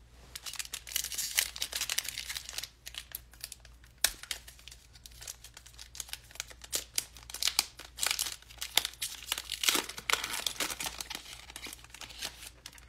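Trading-card pack wrappers being crinkled and torn open by hand: a run of irregular crackles and rips.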